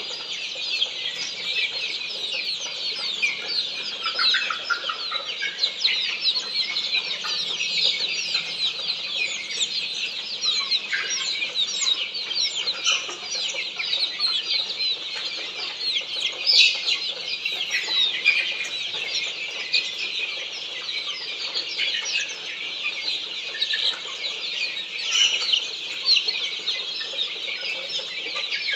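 Many Australorp chicks cheeping together without pause: a dense mass of high, overlapping peeps.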